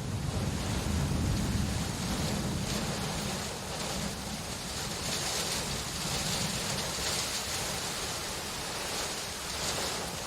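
Steady rain falling, a continuous hiss with a low rumble underneath that eases off partway through.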